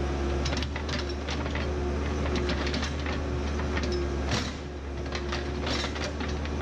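Heavy equipment engine running at a steady low hum, with irregular clanks and knocks from the working machine.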